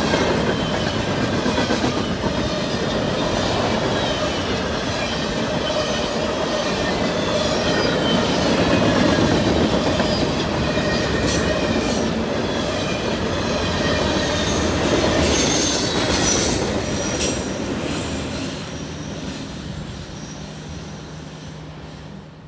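Freight cars rolling past close by: a steady noise of steel wheels on rail, with clicking over the rail joints and a thin, high wheel squeal. A run of sharper clicks comes in the middle, and the sound fades away over the last few seconds.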